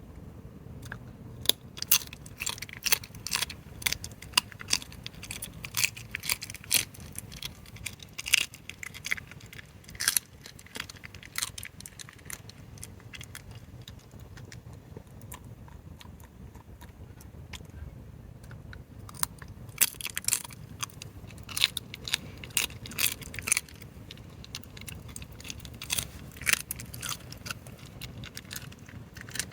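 Fox chewing crunchy food, a quick irregular run of crunches that pauses for several seconds midway and then starts again.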